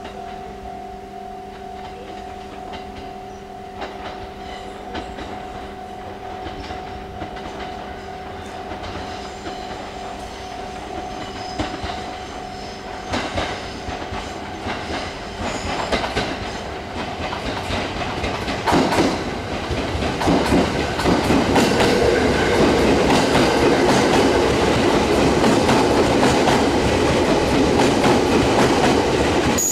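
JR East 209-series electric multiple unit (the MUE-Train test car) approaching and running along the platform, growing from a distant rumble to a loud clatter of wheels over rail joints and points, loudest in the last third.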